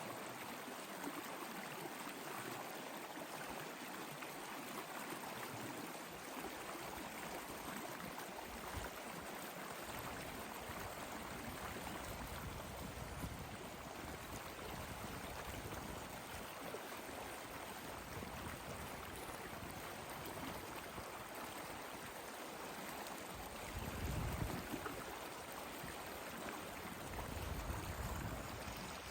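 Steady flowing water, like a stream, with a couple of brief low swells near the end.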